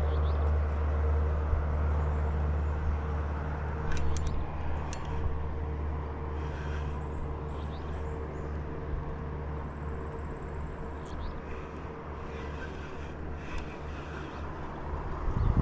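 A motor engine running steadily, a low hum that slowly fades away, with a few light clicks about four seconds in.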